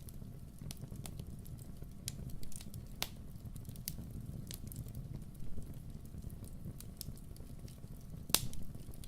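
Wood bonfire crackling, with sharp pops at irregular intervals over a low steady rumble; one louder pop comes near the end.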